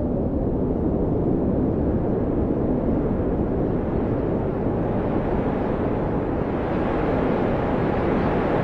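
Blizzard wind blowing steadily, its sound heavy in the low range, growing stronger and hissier over the last few seconds as a gust builds.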